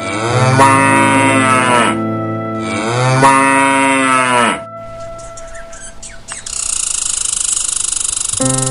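Cow mooing twice, two long calls that each rise and then fall in pitch. A steady hiss follows, starting about two seconds after the second moo.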